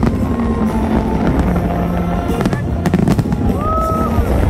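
Fireworks display: aerial shells bursting in a dense barrage with a continuous low rumble and sharp bangs, two of them close together a little past halfway, with music playing along.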